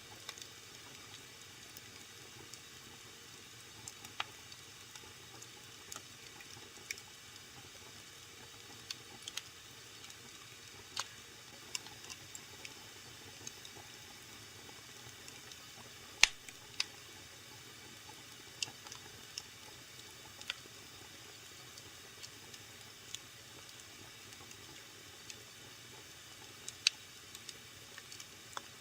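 Wood fire in a fireplace crackling: a steady low hiss with scattered sharp pops, the loudest about sixteen seconds in and another strong one near the end.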